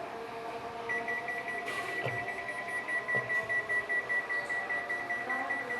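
Walton washing machine's electronic buzzer beeping rapidly on one high pitch, about four beeps a second, starting about a second in.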